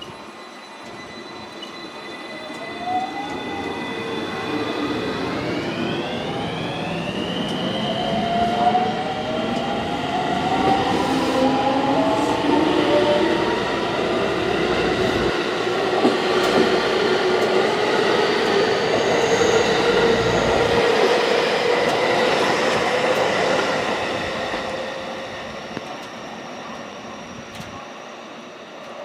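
A JR West 223 series and 225 series electric train pulls out. Its traction motors whine, with several tones rising in pitch as it speeds up, and its wheels clatter over the rails. The sound grows loud, then fades after about 24 seconds as the train moves away.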